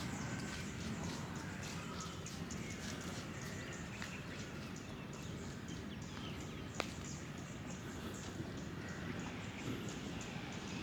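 Outdoor background: a steady low rumble with many small, high chirps or ticks, and one sharp click about seven seconds in.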